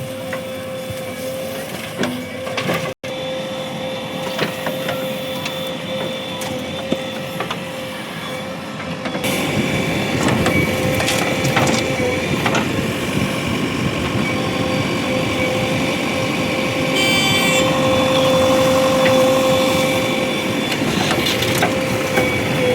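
Heavy diesel earth-moving machinery running, with a steady whine. The sound cuts out for an instant about three seconds in and grows louder and rougher about nine seconds in.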